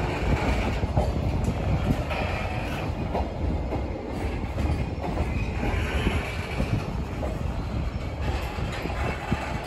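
Container flatcars of a freight train rolling slowly by, their steel wheels rumbling and knocking over the rail joints, with a high wheel squeal that rises and fades several times.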